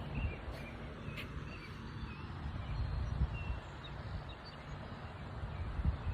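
Gentle surf on the beach with wind rumbling on the microphone, and a few faint, short bird chirps.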